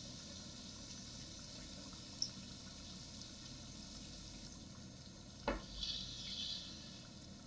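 Food sizzling steadily in a hot pan, with a sharp tap about two seconds in, then a knock and a brief scraping stir a little after halfway.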